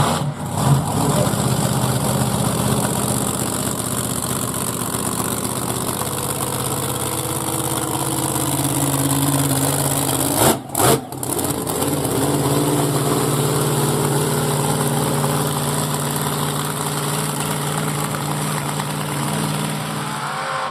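Monster truck's engine running, mostly at a steady low speed, with its pitch shifting up and down around the middle and two brief drops out about halfway through.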